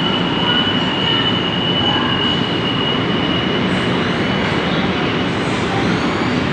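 Steady mechanical rumble with a high, steady whine above it that fades out about five seconds in.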